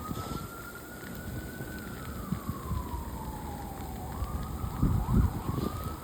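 Distant emergency-vehicle siren wailing, its pitch rising slowly, falling over a couple of seconds, then climbing again, with a quick up-and-down near the end. Low crunching thuds sound under it about four to five seconds in.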